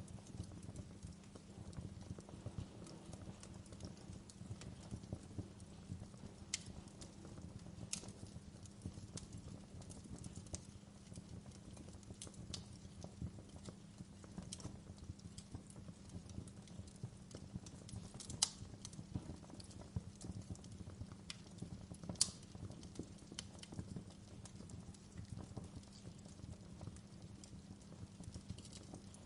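Wood fire crackling in a fireplace: a constant stream of small irregular crackles and snaps over a low steady rumble, with a few sharper, louder pops past the middle.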